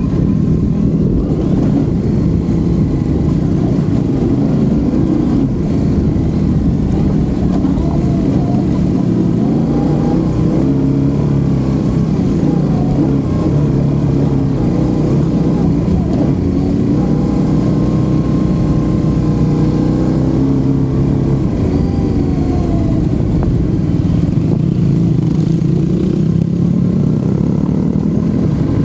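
Yamaha Ténéré 700 adventure motorcycle's parallel-twin engine running under way, its revs rising and falling as the bike is ridden.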